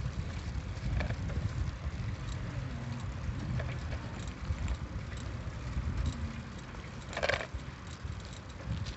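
Wind rumbling on a phone microphone during a bicycle ride, with faint clicks and rattles from the bike. A short burst of noise comes about seven seconds in.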